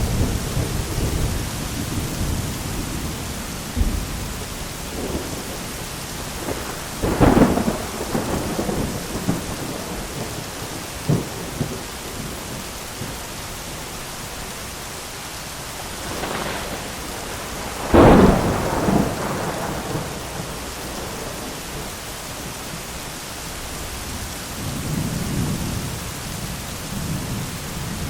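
Thunderstorm with steady rain throughout. Thunder rumbles at the start, two sharp thunderclaps come about seven and eighteen seconds in, each followed by rumbling, and a low rumble rolls in near the end.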